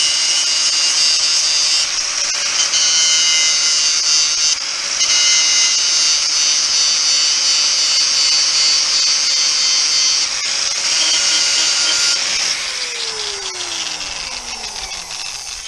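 Electric angle grinder taking the rust off the end of a rusty steel bar: the motor whines steadily under a harsh grinding noise, with a brief letup about four seconds in. Near the end it is switched off and the whine falls steadily as it spins down.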